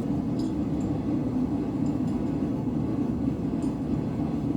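Blacksmith's forge running with a steady, unchanging roar, a few faint light ticks over it.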